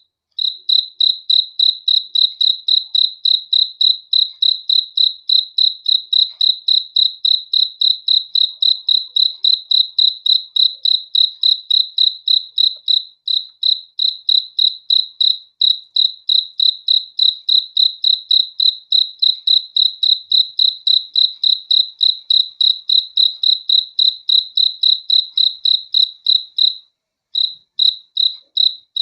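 A cricket chirping, a steady run of evenly spaced high-pitched chirps about three a second, with a few brief pauses.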